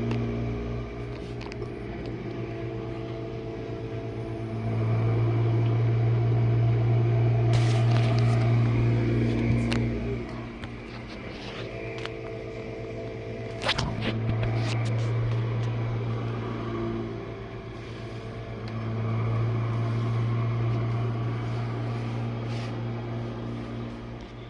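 Jenn-Air dishwasher running a wash cycle: a steady motor hum with water spraying inside, swelling louder and easing off in waves several seconds long. There are a few short clicks and splashes, with a sharper click about 14 seconds in.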